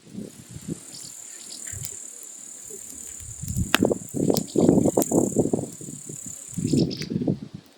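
Wood fire burning, with a few sharp crackles and irregular low surges from about halfway through. A steady high-pitched trill runs over it and stops suddenly near the end.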